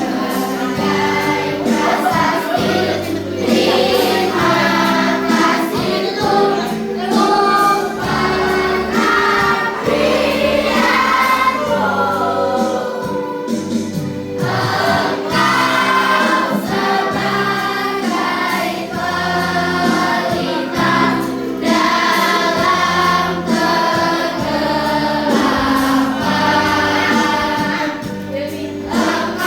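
Children's school choir singing a slow hymn together over an instrumental accompaniment with a steady bass line.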